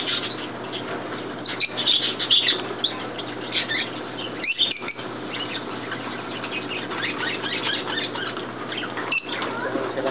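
Many birds chirping and calling at once, short chirps scattered throughout over a steady background din.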